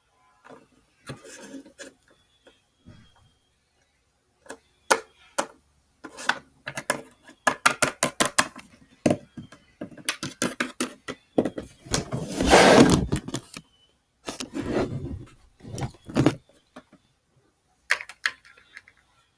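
Small plastic toys and playset pieces being handled and set down: a run of quick clicks, taps and knocks, with a longer scraping rustle about twelve seconds in.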